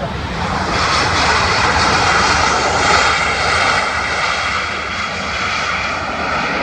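Jet engines of a Boeing 737-400 airliner passing close by: a loud roar with steady whining tones that swells about a second in and eases a little towards the end.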